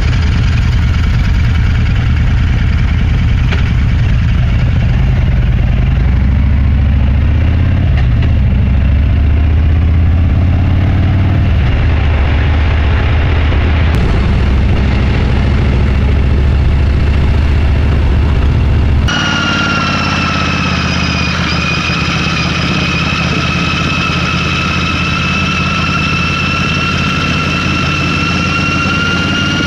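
Motorcycle engine running steadily under way. About two-thirds of the way through, the sound changes abruptly: the deep engine note drops away and a steady high whine in two pitches takes over.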